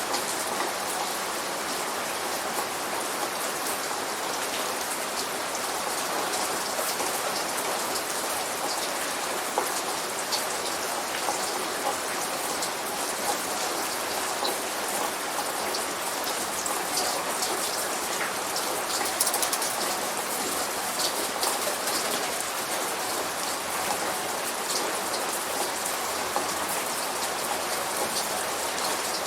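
Steady light rain falling, with many small drops pattering on a surface and no thunder.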